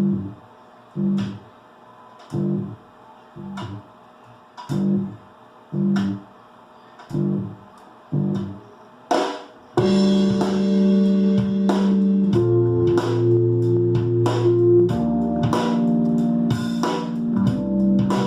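Recorded music played back over Monitor Audio Silver 300 loudspeakers driven by a Diamond Audio D7402 amplifier: short plucked guitar chords come about once a second with gaps between them, then about ten seconds in the bass and fuller band enter and the music plays continuously.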